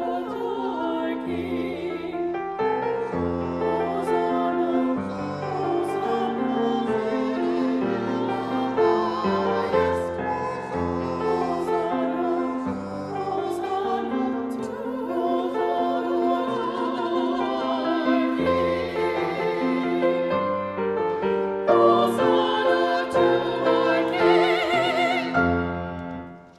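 Church music: a classical-style singing voice with vibrato over keyboard accompaniment, building to a held final note near the end that then fades out.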